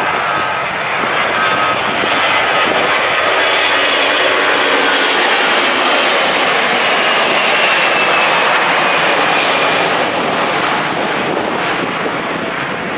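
An Airbus A340-300's four CFM56 turbofan engines at takeoff thrust: a loud, steady roar that builds to a peak about eight seconds in and then eases, with a faint whine falling in pitch as the jet passes.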